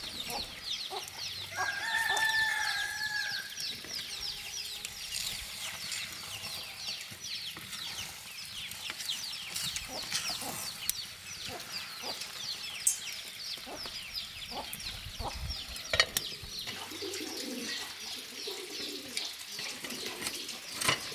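A rooster crowing once, about two seconds in, over a steady background of rapid, high-pitched chirping. A few sharp knocks come later.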